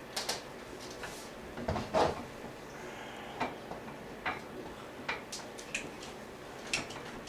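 Scattered sharp clicks and light knocks, about a dozen at uneven intervals, from a chair joint being fitted and one-handed plastic bar clamps being set.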